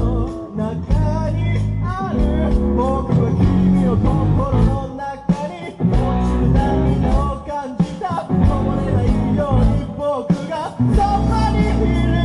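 Live rock band playing, with a singer's voice over guitar, bass and drums.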